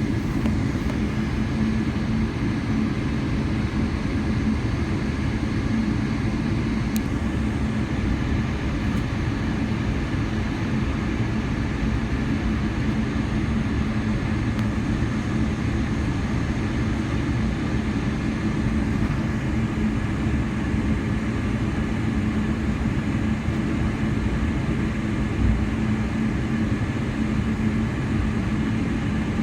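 Steady cabin noise of a Boeing 777-300ER, its two GE90 engines running and the hull rumbling, heard from a seat inside the cabin, with an even low hum that does not change.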